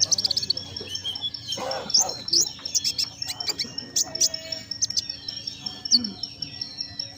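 Konin songbird singing in full voice: a rapid string of sharp, high chirps and quick sweeping notes, over a steady high-pitched tone.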